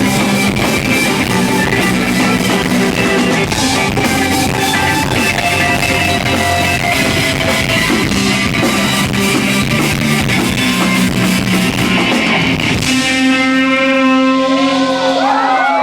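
Live rock band playing loudly, with electric guitars and a drum kit. About 13 seconds in, the drums stop and the guitars ring out on a held chord, with wavering, bending tones as the song ends.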